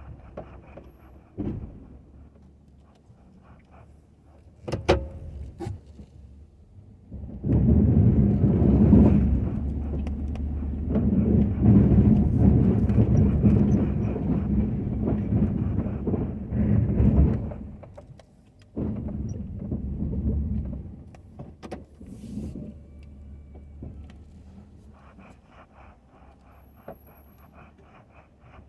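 Ford F-250 plow truck at work: the truck's engine hums steadily under a loud rush of noise lasting about ten seconds from a quarter of the way in, and a shorter one of about two seconds later, with a few sharp knocks before them.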